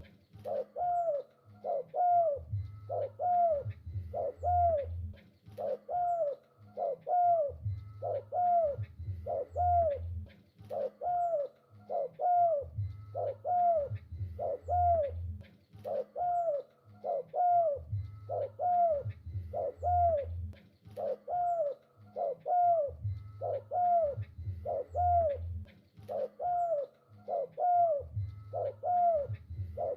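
Spotted dove (tekukur) cooing continuously, short curved coo notes repeating about one to two a second without a break. Deeper low notes come in clusters about every five seconds.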